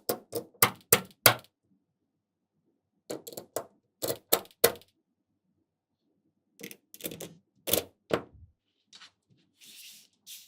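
Small magnetic balls clicking as they snap together, in three quick runs of about half a dozen clicks each, with a brief scraping rustle near the end.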